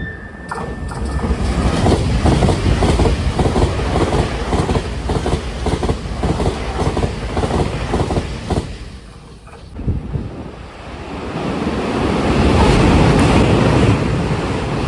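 Taiwan Railway express train passing at high speed, about 129 km/h, its wheels clattering rapidly over the rail joints for about eight seconds. About ten seconds in, a second express train passing at about 128 km/h swells into a steady rush of noise.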